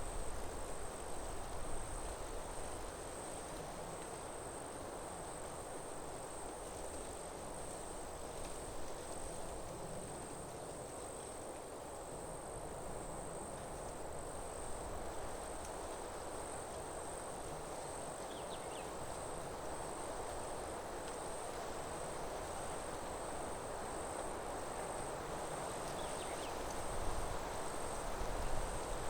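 Forest ambience: insects keep up one steady, high-pitched trill while wind rushes through the trees, swelling and easing. Low gusts rumble near the start and again near the end.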